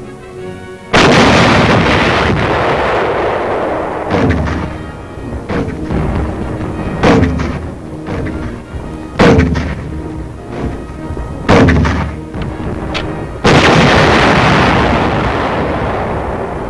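Artillery firing: seven heavy booms over about twelve seconds, each dying away slowly. The first and last are the loudest.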